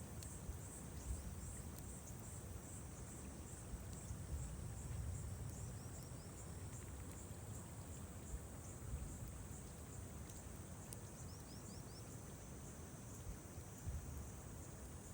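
Insects chirping in a steady high-pitched trill that pulses rapidly at first, over a low rumble. A few faint pops and two brief runs of small falling chirps are heard.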